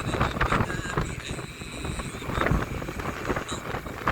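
Rumble of a moving vehicle with wind buffeting the microphone.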